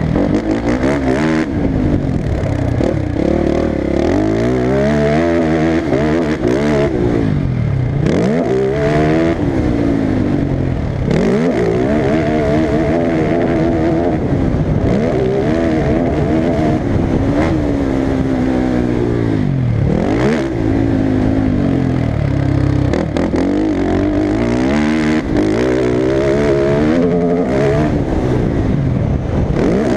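Motocross bike engine running hard, its revs climbing and falling over and over as the throttle is worked and gears change, with a few deep drops in revs followed by long climbs.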